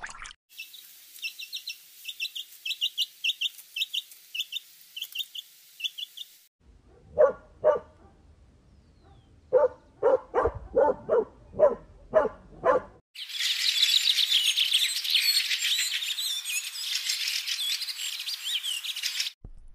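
A run of separate animal sound clips with short silences between them: first a small bird chirping over and over, about three short high chirps a second. Then comes a series of about a dozen lower, pitched calls in quick succession. Last is a dense chorus of many birds chattering at once, which cuts off suddenly near the end.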